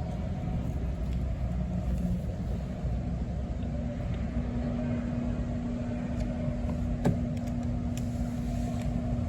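Steady low rumble of ice-rink background noise during a stoppage in play, with a steady hum coming in about four seconds in and a single knock about seven seconds in.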